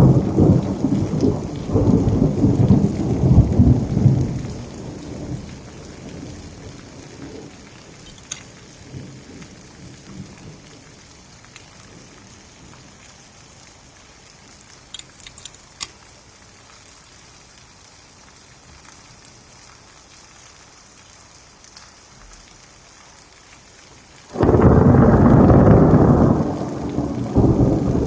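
Electrical storm: a roll of thunder rumbles and fades over several seconds, then steady rain hisses with a few scattered drips, until a sudden, louder thunderclap near the end that rumbles on.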